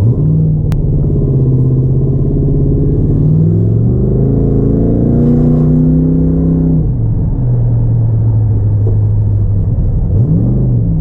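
Third-generation Pontiac Firebird's engine accelerating hard from a launch. The revs climb, drop at a gear change about three seconds in, and climb again. They fall near seven seconds and run steady, then rise and fall twice in quick succession near the end.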